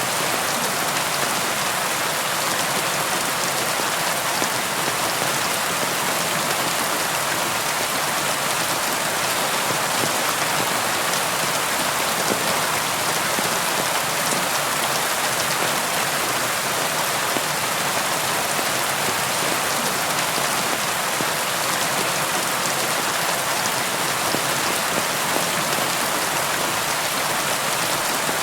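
Steady rain falling: an even, unbroken hiss with scattered drop ticks and no thunder.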